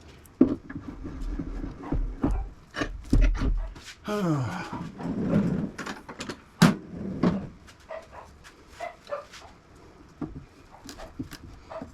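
A dog vocalizing with one drawn-out call that falls in pitch about four seconds in. Scattered knocks and clicks are heard throughout.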